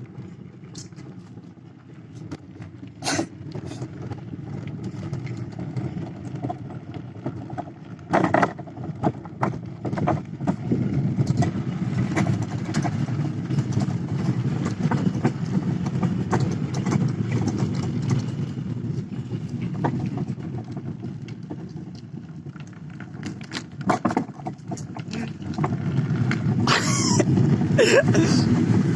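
An engine running steadily with a low rumble that gets louder about ten seconds in and again near the end, with several sharp knocks and rattles along the way.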